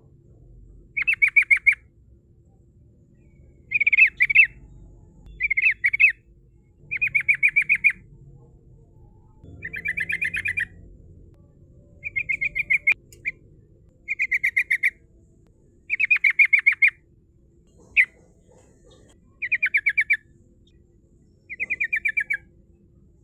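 Yellow-vented bulbul (trucukan) singing short, bubbly phrases of rapid chattering notes. The phrases repeat about every one and a half to two seconds, about a dozen in all.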